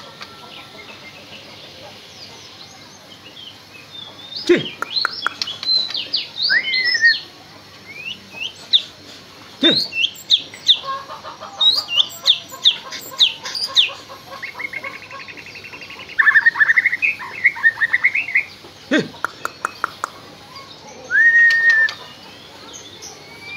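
White-rumped shama (murai batu) singing in bursts: quick runs of clear whistled notes, sharp clicking notes, a rapid trilled phrase, and a single held whistle near the end, with short pauses between phrases.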